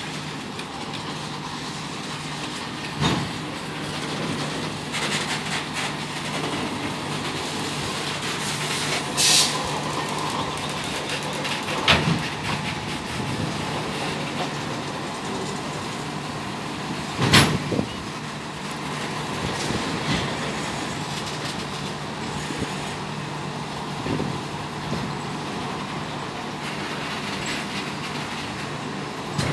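RORO freight train's wagons rolling past, a steady rumble with a constant low hum, broken by about four sharp clanks of wheels and couplings and a short hiss about nine seconds in.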